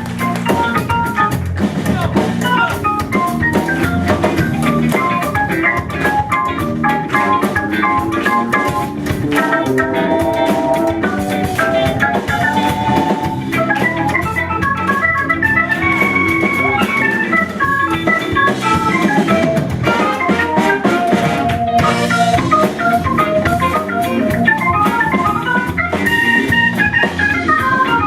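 Live funk band playing, with an organ carrying quick melodic runs over a drum kit.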